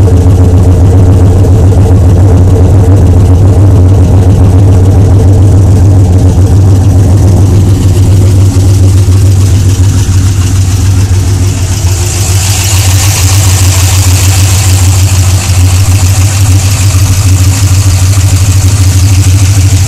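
Silverado TR220's engine running steadily and loudly at its first start-up, with a strong low hum. About twelve seconds in, a hiss rises over it and stays.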